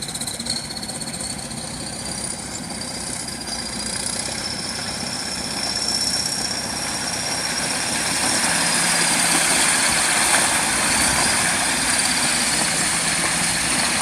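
Steady engine-like running noise that slowly grows louder, with a thin high whine over it.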